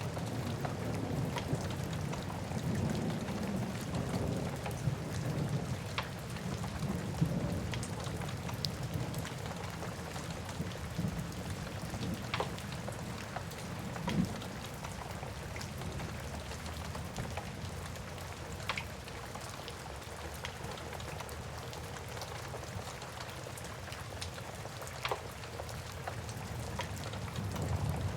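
Wood fire crackling with scattered sharp pops every second or two, over steady rain. A low rumble of thunder swells in the first few seconds and again near the end.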